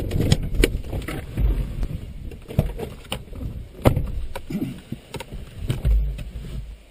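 Vehicle driving over a rough dirt road: many sharp knocks and rattles from the jolting body and suspension over a low rumble, which dies down near the end.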